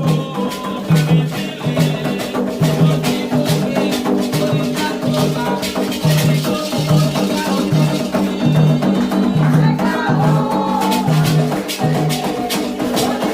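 Candomblé ritual music for Xangô: hand drums beating a steady rhythm with a shaken rattle over it, and voices singing about two thirds of the way through.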